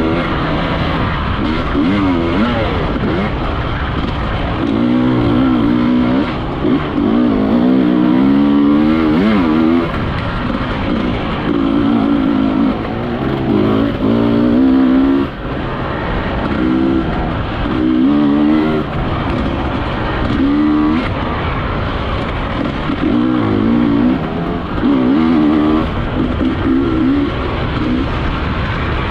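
Enduro dirt bike engine revving up and down again and again under throttle, with the pitch rising and falling every second or two.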